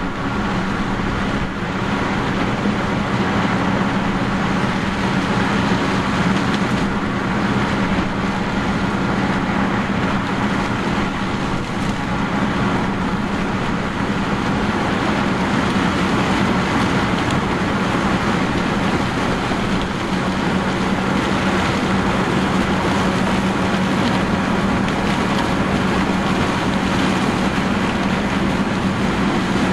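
Heavy farm machinery running steadily under load: a large diesel engine hums at a constant pitch over dense mechanical noise, without a break.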